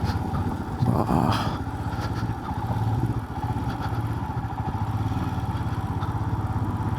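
Motorcycle engine running steadily while riding, a low even hum, with a brief burst of noise about a second in.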